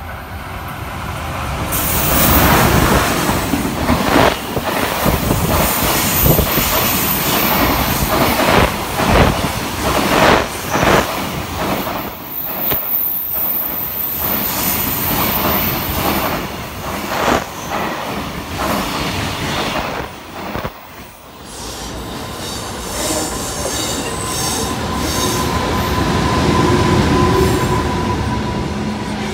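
Freight train hauled by an EH500 electric locomotive passing close at speed, its container wagons clattering over the rail joints with a high-pitched wheel squeal. After a brief drop about 21 seconds in, a second freight train's empty container flat wagons roll past with steadier running noise.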